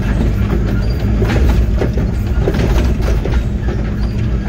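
Excavator diesel engine running steadily under load, heard from inside the cab, with repeated knocks, cracks and clanks as the bucket works a stump loose.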